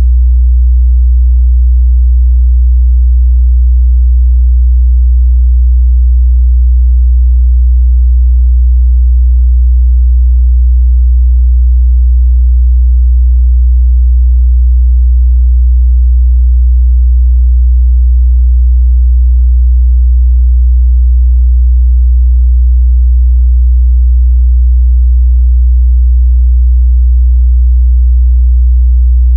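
A steady, loud 61 Hz sine-wave test tone: one low, unchanging bass pitch used to check a speaker's or headphone's mid-bass response.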